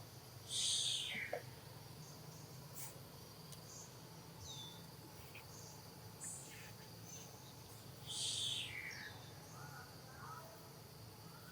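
Two short, high-pitched animal calls, each stepping down in pitch, about seven seconds apart. Under them runs a faint steady high drone of insects.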